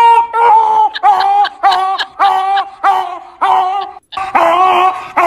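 A dog barking over and over, about two drawn-out barks a second, broken by a brief pause about four seconds in.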